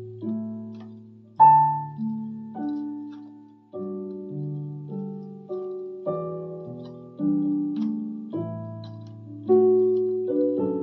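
Electronic keyboard on a piano voice playing a slow, gentle ballad melody over sustained bass chords, each note struck and left to fade.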